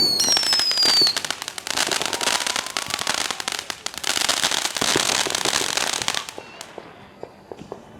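Fireworks: a falling whistle in the first second, then dense crackling for about five seconds that thins to scattered pops near the end.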